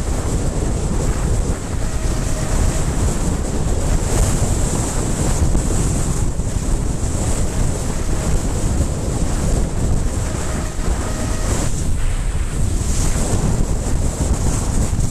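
Wind buffeting a helmet camera's microphone while riding: a loud, steady rushing roar, with a thin steady high hiss above it.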